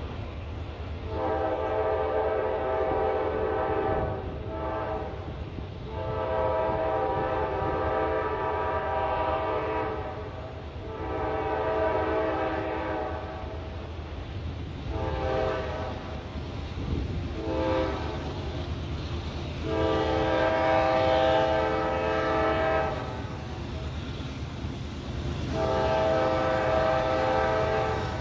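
Diesel locomotive's multi-chime air horn sounding a series of long blasts with a few short ones, the kind of sequence sounded for grade crossings, over the low rumble of the passing train.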